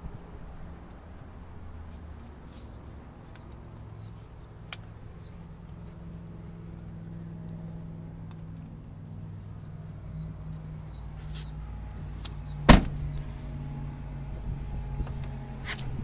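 Ram 2500's Hemi V8 idling with a steady low hum, while birds chirp in two short bouts of falling notes. About three-quarters of the way through comes one loud slam.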